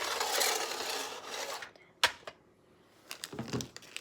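A rubbing, scraping noise lasting about a second and a half, then a single sharp click about two seconds in, and a brief low sound near the end.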